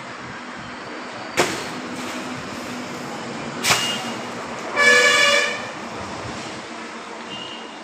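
Two sharp knocks a little over two seconds apart, then a vehicle horn sounding one short toot of under a second, the loudest sound here.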